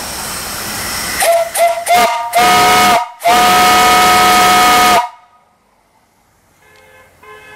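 Antique brass steam whistle on a steam boiler. A steady hiss of steam comes first, then a few short, choppy toots as the valve is opened, then two long blasts with a brief break between them, cutting off sharply. A faint distant toot sounds near the end.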